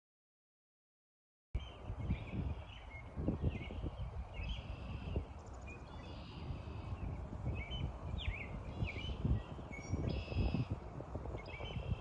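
Silence for about a second and a half, then several birds chirping and trilling in short repeated calls over a low, uneven rumble.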